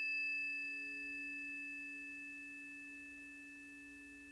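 Two planetary tuning forks, for Mercury and Neptune, ringing on in a few steady pure tones and fading slowly.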